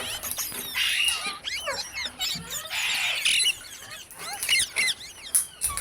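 Parrots chirping and squeaking in a rapid run of short, high calls that slide up and down in pitch. There are harsher squawks about a second in and again around three seconds.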